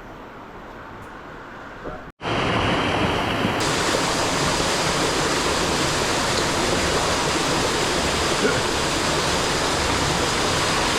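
Loud, steady rushing of a waterfall. It comes in suddenly after a brief cut about two seconds in, replacing a fainter hiss.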